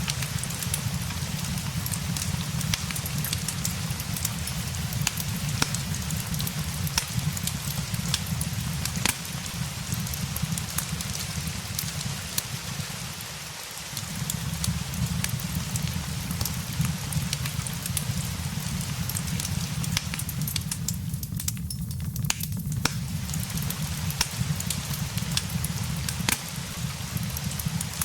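Steady rain mixed with a crackling wood fire: an even hiss of rain over a low rumble, with frequent sharp pops and crackles. The low rumble briefly drops away about halfway through.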